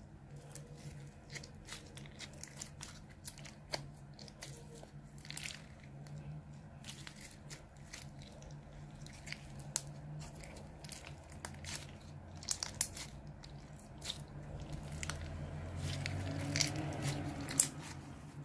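Slime being squished and stretched by hand, giving many irregular crackling clicks and pops, over a low steady hum.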